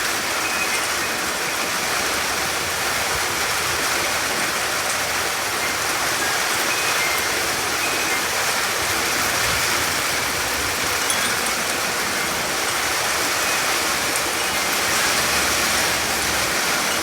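Heavy rain pouring down steadily, an even, unbroken hiss with no letup.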